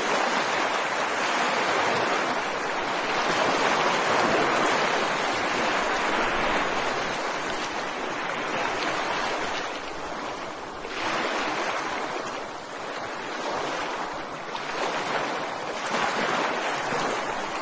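Ocean surf: waves breaking and washing up a beach as a steady rushing hiss that swells and ebbs every few seconds.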